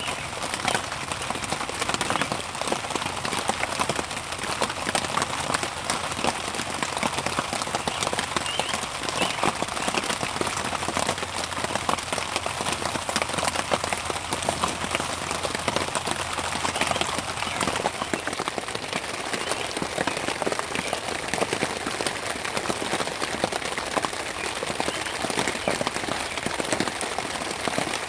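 Steady rain hitting a tarp overhead, heard from inside the tarp tent: a dense, even spatter of drops with no let-up.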